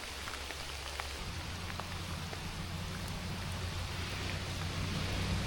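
Steady rain falling, with scattered individual drop taps. About a second in, a low rumble joins it and the sound slowly grows louder.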